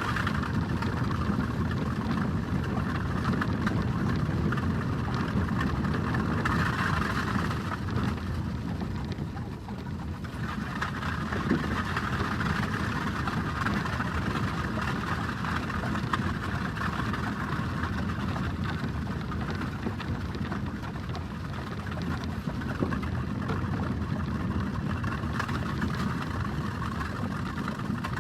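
Horse-drawn carriage rolling: a steady rumble and rattle of wheels, easing briefly about ten seconds in.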